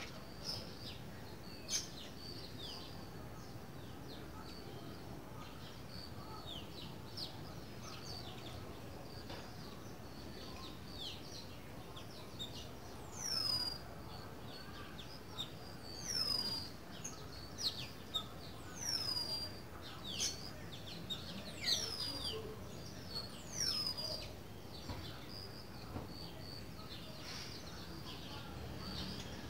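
Birds chirping and whistling: short high chirps at first, then, from about halfway through, a series of sharp downward-sliding whistles repeated every second or two.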